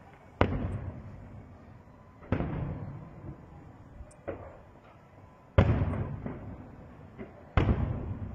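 Aerial firework shells bursting: four loud booms about two seconds apart and one smaller bang between them, each followed by a fading echo.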